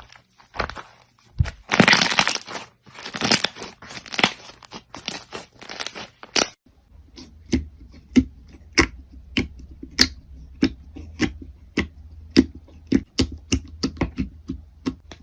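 Crunchy slime being squeezed and pressed by hand, giving dense crackling and popping. About six and a half seconds in the pattern changes to separate sharp pops, two or three a second.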